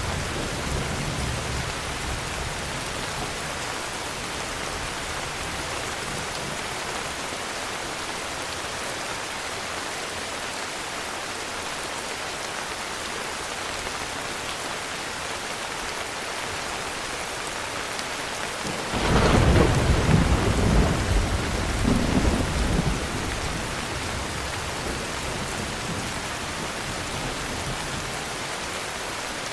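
Heavy rain falling steadily, with a thunderclap about two-thirds of the way through that cracks and then rumbles for about four seconds. The tail of an earlier roll of thunder fades out at the very start.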